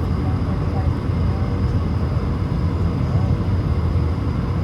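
Steady low rumble of an Airbus A220 jet airliner's engines and airflow, heard from inside the cabin, with a faint murmur of voices.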